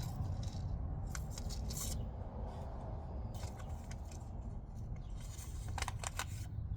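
Irregular scratching and rustling of seed-planting handwork, such as fingers and tools in soil and seed containers, with several quick strokes close together near the end, over a steady low rumble.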